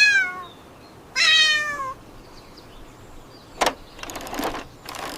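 A cat meowing twice, each call falling in pitch, the second one longer. Near the end, a sharp click followed by a rattling noise.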